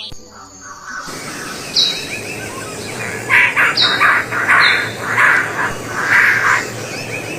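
Birds calling over a steady outdoor background: a few short, high whistled notes, then a run of about seven loud, harsh calls in quick succession.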